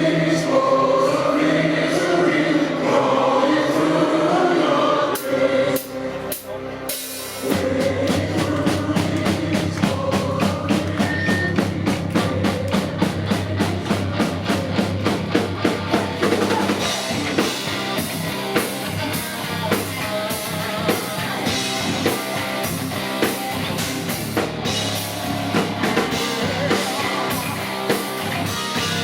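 Live heavy metal band playing. It opens with choir-like singing over sustained chords, drops away briefly about six seconds in, then the full band comes in with a fast, even drum beat under low sustained bass.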